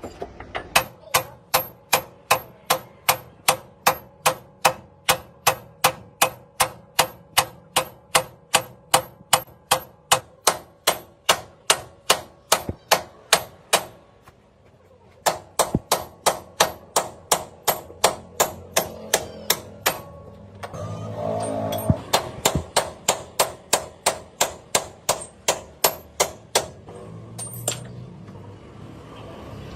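Hammer striking metal in a steady rhythm, about two to three ringing blows a second, with a short pause partway through. A rougher rumbling noise joins for a couple of seconds in the second half.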